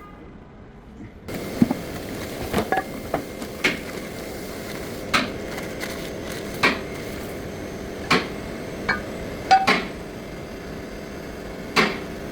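Irregular sharp metallic knocks and clinks, about a dozen, of steel hand tools striking metal brake parts during a brake pad and rotor change. A steady background hiss comes in about a second in.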